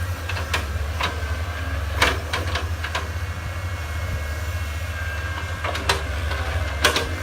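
Komatsu excavator's diesel engine running steadily under load, with a few sharp metallic knocks from the working arm and bucket. Its pin bushings have just been replaced, which is said to make it knock less.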